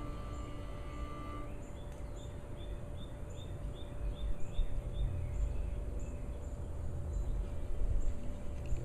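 A small bird chirping over and over in a steady high rhythm, over low rumbling wind-like noise that grows about halfway through. Music dies away in the first second and a half.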